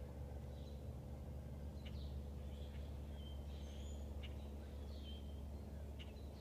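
Birds chirping outdoors: short high chirps and brief whistled notes every second or so, over a steady low rumble.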